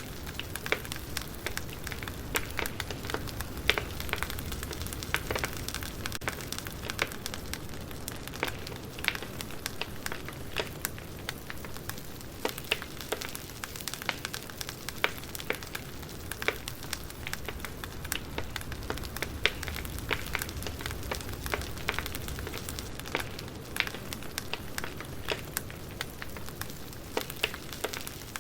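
Wood fire crackling, with sharp irregular pops and snaps over a steady low hiss of burning logs.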